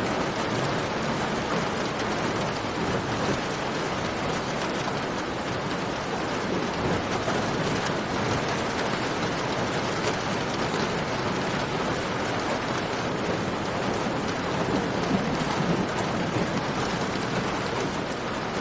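Steady, dense rain falling in a cave, with a few faint crackles and pops of a campfire through it.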